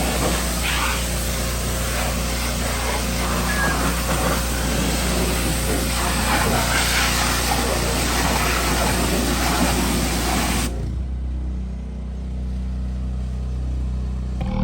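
Steady spraying hiss from car-detailing equipment, over a constant low engine hum; the spray cuts off suddenly about eleven seconds in while the hum runs on.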